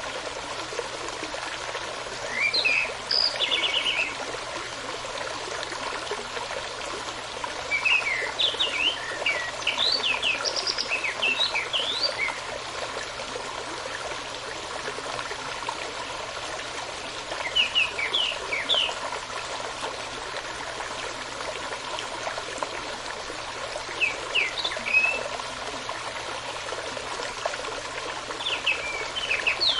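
Small stream running steadily, with a songbird singing short phrases of quick chirping notes over it about five times, every few seconds.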